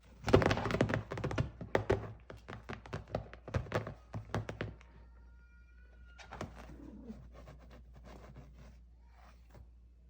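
A Russian Blue cat pouncing and scrambling on a sofa: a quick, loud run of thuds and scuffs for about five seconds, then fainter clicks and scratches.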